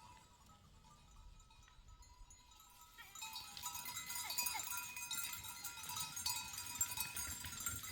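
A flock of sheep and goats with bells, the bells clinking and jangling, growing much louder about three seconds in; one animal bleats briefly partway through.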